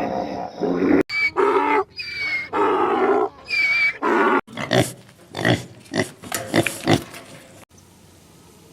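An animal's calls: four drawn-out pitched calls, then a quick run of short, sharp calls that stops about a second before the end.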